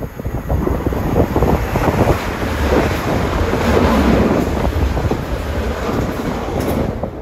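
A train passing the platform, its rumbling noise building to a peak about four seconds in and then easing, with wind buffeting the microphone.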